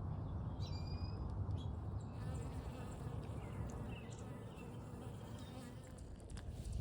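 A flying insect buzzing close by, a low continuous buzz that eases off slightly toward the end.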